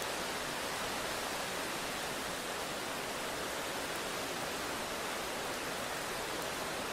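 Steady rain, an even unbroken hiss with no thunder in it.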